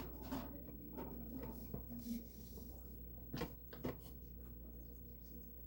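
Faint handling sounds of household items being moved on a kitchen counter, with two light knocks about three and a half seconds in, half a second apart, over a low steady hum.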